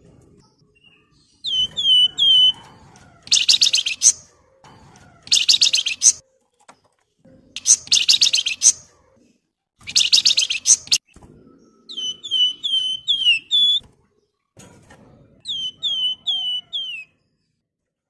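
A Javan fulvetta, the songbird kept as 'flamboyan', singing. It gives runs of three to five short downward-sliding whistles, and these alternate with four harsh, rattling chatter bursts of just under a second each. The whistles come back near the end.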